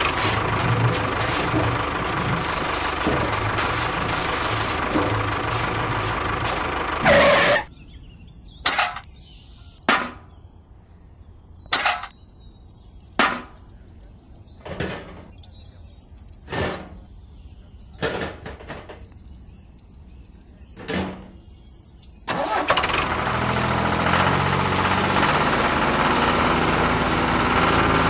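A miniature model tractor's small motor running steadily, which stops about seven seconds in. About ten short separate knocks follow, a second or so apart, against low background. The motor starts running steadily again near the end.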